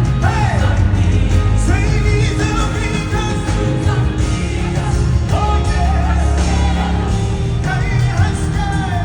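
Live gospel worship music: singing over a full band with a heavy bass line.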